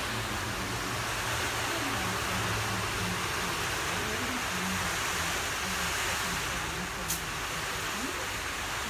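Harley-Davidson Twin Cam 103 air-cooled V-twin running steadily at idle through aftermarket Roland Sands Design exhaust pipes.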